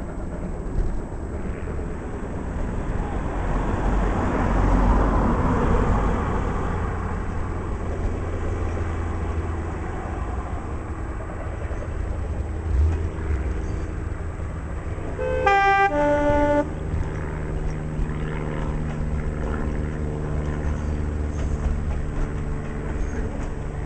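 Diesel train running with a steady low rumble, swelling a few seconds in; about two-thirds of the way through its two-tone horn sounds once, a short higher note then a lower one, and the engine's steady note carries on after it.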